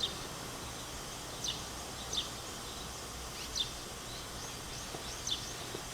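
Steady outdoor background noise with a bird giving short, high, falling chirps about five times, a second or so apart.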